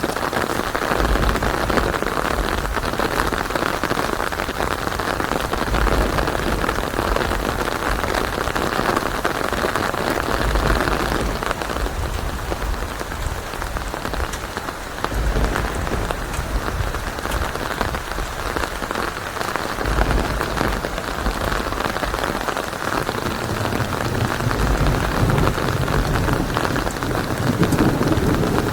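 Steady heavy rain with low rolling thunder that comes and goes, building near the end.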